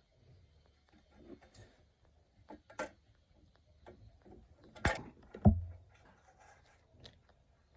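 Scattered light clicks and knocks of objects being handled, with a sharp knock about five seconds in and a heavier thud right after.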